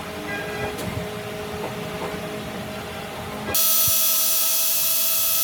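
Light clicks, then about three and a half seconds in a high-pitched tool starts abruptly and runs steadily with a whine and hiss.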